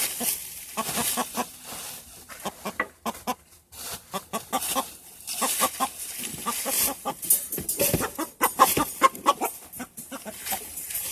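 Rooster clucking and squawking in a rapid, irregular series of short calls, with bursts of noise among them.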